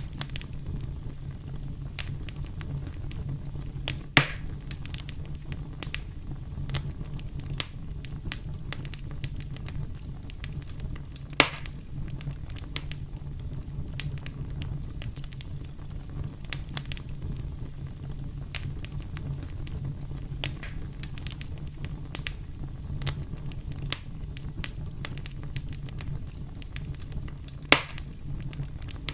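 Campfire crackling: a steady low rumble of burning with frequent sharp pops and clicks, and three much louder snaps spread through.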